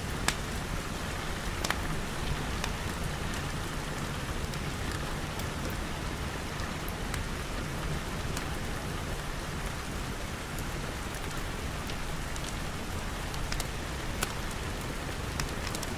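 Steady rain pattering on a glass roof and walls, with a few sharp pops from a crackling wood fire scattered through it.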